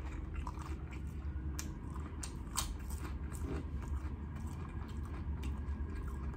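A person chewing crunchy potato chips: irregular crisp crunches over a low steady hum.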